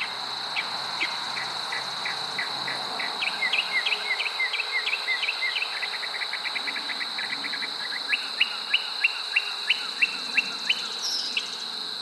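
Steady high-pitched insect trill, crickets, with a bird calling over it: a fast run of short rising chirps a few seconds in, and a slower run of louder rising notes, two or three a second, in the second half.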